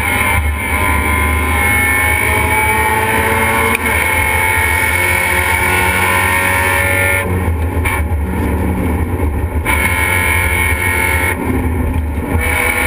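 Race car engine running hard, heard from inside its stripped, roll-caged cabin, the engine note gliding as revs change. Twice the sound eases off, for about two seconds past the middle and again near the end, as the throttle is lifted.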